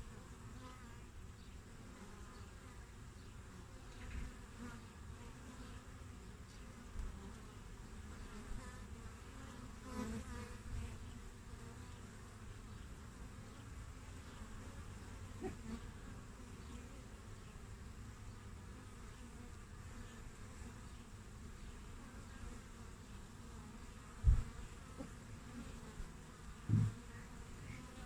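Honeybees (Apis mellifera) buzzing at a hive entrance: a steady, faint hum of many bees, with a few brief louder low sounds, the two strongest near the end.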